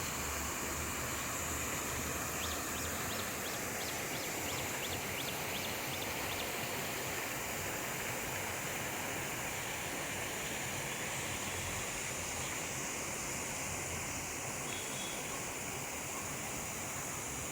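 Steady rush of running water, with a short run of faint high ticks a few seconds in.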